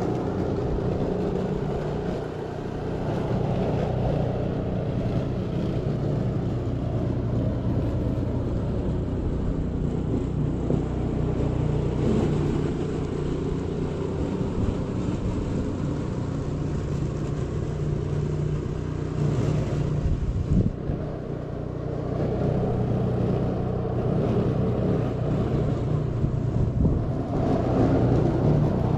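A motor vehicle running steadily: a low engine drone with a hiss of noise over it.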